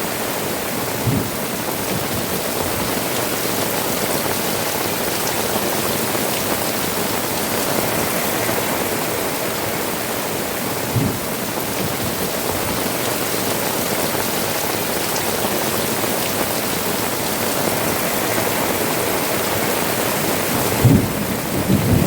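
Heavy rain pouring steadily onto tiled rooftops and dripping from the eaves, a dense, even hiss. Brief low thumps break through a few times, with a cluster of them near the end.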